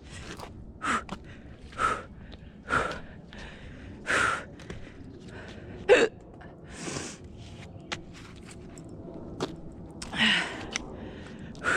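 A woman's short, heavy breaths and gasps of exertion, roughly one a second with a longer gap in the middle, a sharper one about six seconds in, as she strains to climb a tree.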